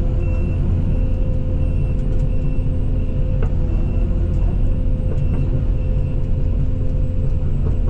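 Case CX220E excavator's diesel engine running at a steady pitch while it works, with a few faint knocks.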